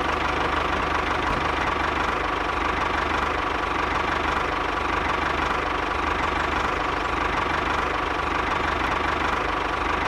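Small engine of a DIY model tractor running steadily, with a fast, even low putter and a faint steady whine.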